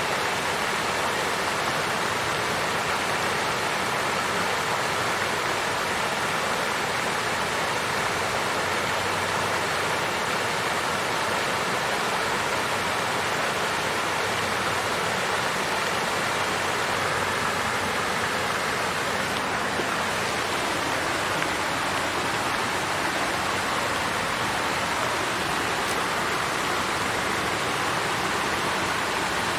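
Water fountain flowing steadily, a continuous even splashing rush of falling water.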